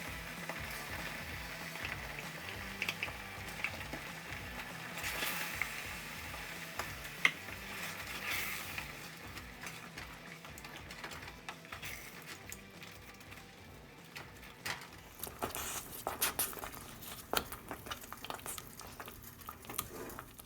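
Spoon stirring thick cream cheese and ranch dressing together in a pot, with scattered scrapes and clicks of the spoon against the pot.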